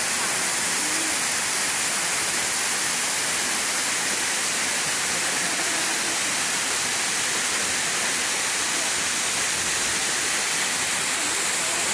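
A waterfall's steady rushing of falling water, an even hiss that holds at one level throughout.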